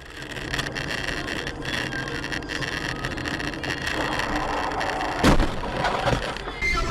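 Car engine and road noise, steady, with one sharp bang about five seconds in, the loudest moment.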